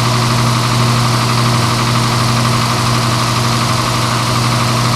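A steady engine idling sound: a loud, deep hum with a hiss over it, holding one pitch throughout.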